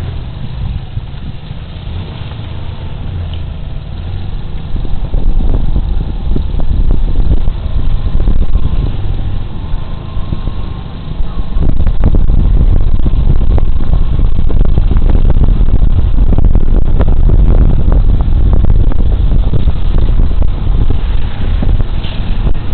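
Wind buffeting a body camera's microphone on a moving Suzuki Burgman Street 125 scooter, a heavy low rumble with the scooter's running and road noise beneath it. It grows much louder about halfway through and stays loud.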